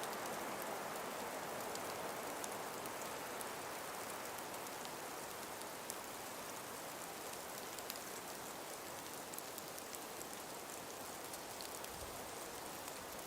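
Steady breeze hissing through frost- and ice-covered forest trees, with faint scattered ticks throughout. A low rumble comes in near the end.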